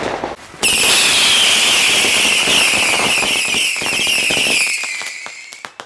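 Whistling firework: a loud, high, wavering whistle starts suddenly about half a second in, holds for about five seconds while sinking slightly in pitch, then fades out near the end. Crackling runs underneath.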